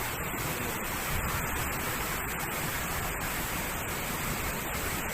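Steady rush of water from a waterfall, an even hiss with no rises or breaks.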